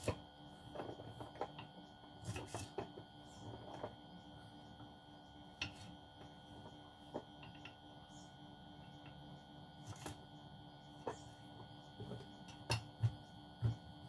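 Scattered light clicks and knocks of kitchen items being handled during food preparation, over a faint steady hum. A few louder low knocks come close together near the end.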